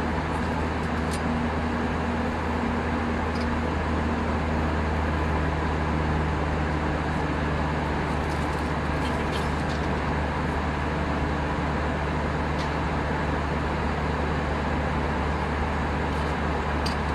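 Steady cabin noise inside an Airbus A319 in flight: engine drone and rushing air as a constant roar with a low hum underneath, and a few faint ticks.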